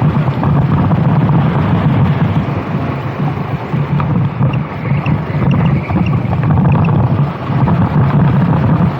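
Racing kart engine running hard, with heavy wind noise on the microphone. Its low, buzzing note wavers and dips briefly a few times before picking up again.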